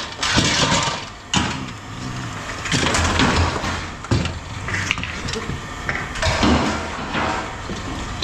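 Scrap metal being handled: scattered knocks and clanks, several sharp, over a steady low engine-like hum.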